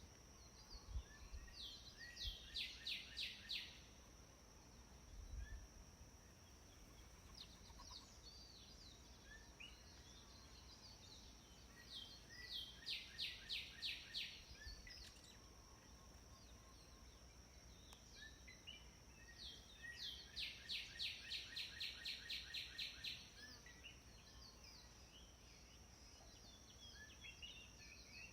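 A songbird singing the same phrase three times, each phrase a fast trill of repeated notes, about six a second, over a faint steady high-pitched tone.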